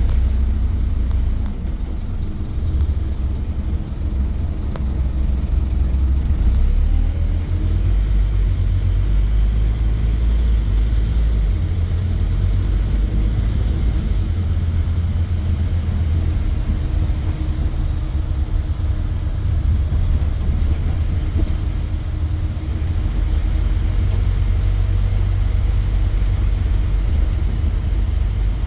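Scania N230 bus's nine-litre five-cylinder diesel engine running under way: a steady low drone that swells and eases with the throttle.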